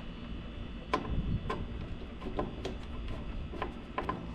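Light, irregular metallic clicks and taps of hand tools and metal parts being handled during electrical work, about eight in all, over a steady low hum.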